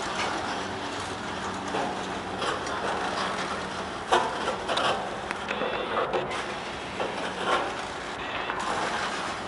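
Freight train of covered hopper cars rolling past close by: steel wheels running on the rails make a steady rumble, broken by sharp clanks and knocks. The loudest knock comes about four seconds in.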